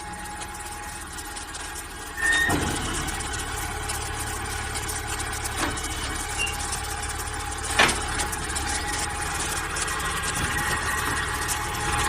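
ZGMC ZG15-26 backhoe loader's engine running steadily; about two seconds in it gets louder with a brief squeal, as if working or revving, and a single sharp knock sounds near eight seconds.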